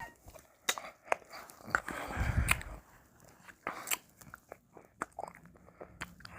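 Close-miked mouth sounds of eating ice cream: wet clicks, lip smacks and licking, with a louder, longer stretch about two seconds in.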